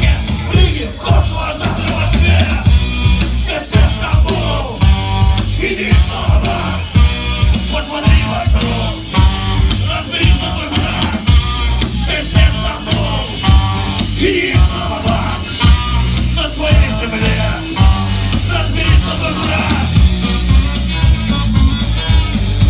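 Punk rock band playing live: driving drums, bass and electric guitar, with sung and shouted vocals through most of the passage, fading toward the end.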